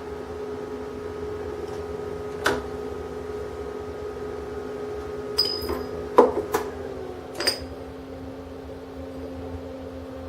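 Steady electrical hum with several fixed tones from the HHO-BOX8 hydrogen welding station running. Five short sharp clicks and knocks come in the middle, with the loudest about six seconds in.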